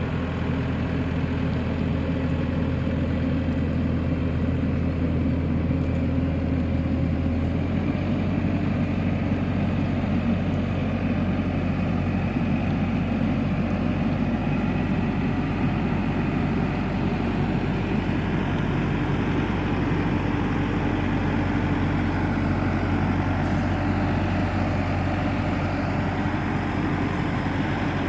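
BCS Volcan K105 compact reversible tractor's engine running steadily, its note shifting about seven seconds in.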